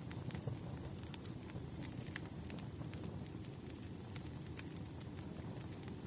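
Wood fire crackling: scattered sharp pops and snaps over a steady low rumble of burning logs.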